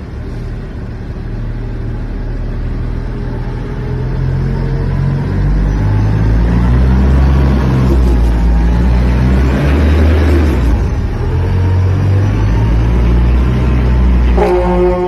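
Heavy truck engine rumbling low and growing louder as it draws close, then staying loud. Near the end a pitched, chord-like tone sets in over it.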